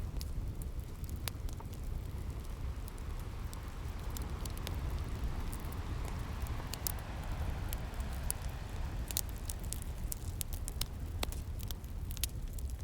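Wood fire crackling, with sharp pops scattered irregularly and coming thickest in the second half, over a low, steady rush of sea waves.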